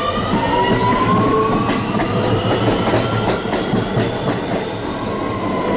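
New York City subway train pulling out of the station: the traction motors' whine rising in pitch over the steady rumble of the wheels, with clicks as they cross the rail joints.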